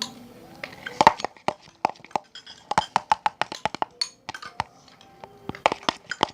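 Slime being stirred and worked in a container: an irregular run of sharp clicks and taps, at times about four a second, some with a short ring.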